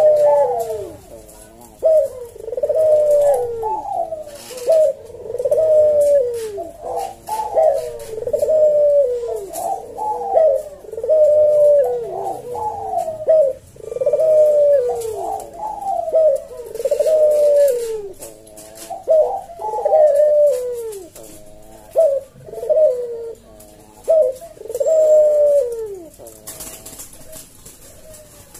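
Barbary dove (puter) cooing over and over, a long series of deep falling coos that stops a few seconds before the end.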